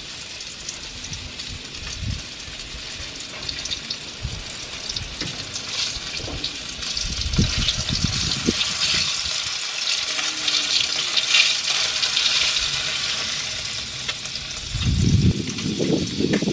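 Eggplant pieces frying in hot oil in a wok, a steady sizzle that grows louder about seven seconds in as another piece goes into the pan. Low knocks of handling come near the end.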